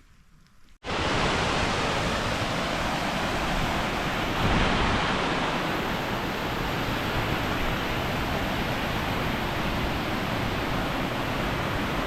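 Waterfall rushing, a loud, steady wash of falling water that cuts in abruptly about a second in.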